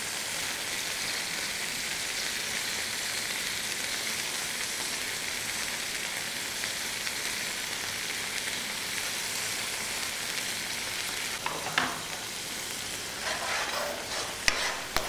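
Oil sizzling steadily as paneer cubes shallow-fry in one pan while a tomato masala fries in another. Near the end come a few sharp clicks and scrapes of a wooden spatula against the pan.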